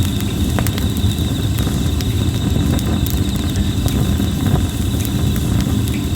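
Red plum wood burning in a campfire, crackling with scattered sharp pops over a steady low rush of flame. Insects trill steadily in the background, a high rapid pulsing chirr.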